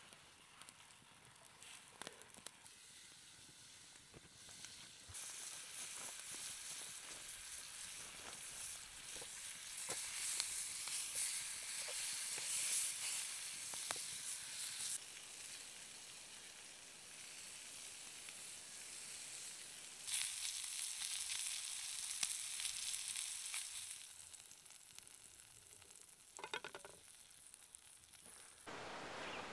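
Steak and green beans sizzling in a stainless steel frying pan over a campfire. The sizzle swells after a few seconds, jumps louder again about two-thirds of the way through, then eases, with a few short clicks near the end.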